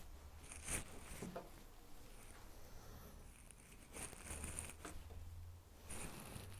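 Faint, short scratching and tapping sounds, a few separate strokes, over a low steady hum.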